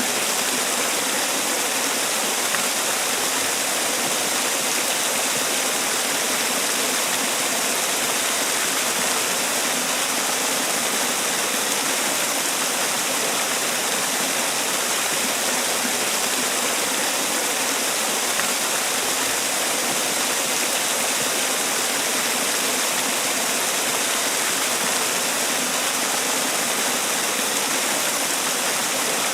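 Man-made waterfall: water falling and splashing in a steady, unbroken rush, strongest in the hiss.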